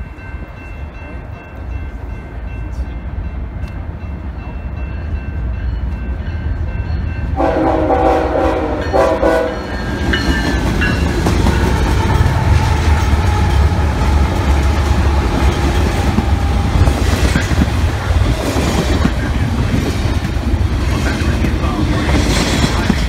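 BNSF intermodal freight train approaching and passing: the diesel locomotives' rumble grows louder as they near, they sound one horn blast of about two seconds roughly a third of the way in, then the double-stack container cars roll by with steady wheel-on-rail noise.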